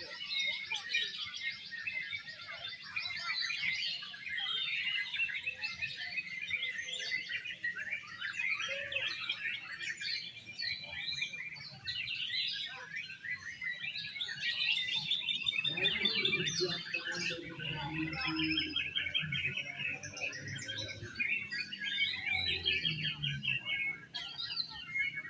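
Several Oriental magpie-robins (kacer) singing at once: dense, fast chattering, trills and whistled phrases. A low murmur joins underneath in the second half.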